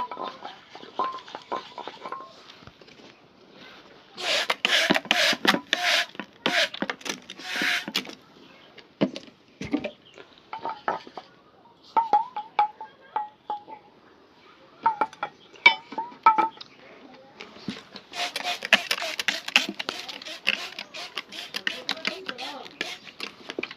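Shoe being hand-polished: quick brush strokes on leather in two long spells, with light clinks and taps of polish tins and tools between them.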